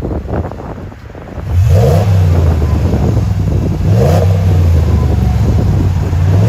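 Ram 1500's 5.7-litre Hemi V8, through a Borla Pro XS muffler with the stock resonators left on, accelerating hard. The exhaust gets much louder about a second and a half in, and its pitch climbs in steps through the gears.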